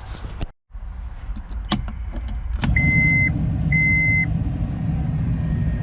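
An engine running steadily, becoming louder about halfway through. Two high electronic warning beeps sound about a second apart as it picks up.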